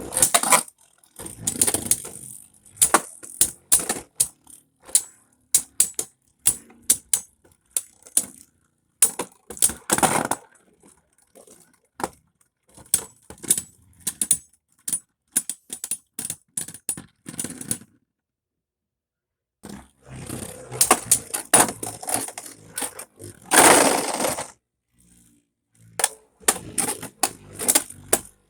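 Beyblade spinning tops clashing and clattering in a stadium: a string of sharp, irregular clacks and rattles. The clacks stop for about two seconds just past the middle, then come back with a thicker burst of clatter.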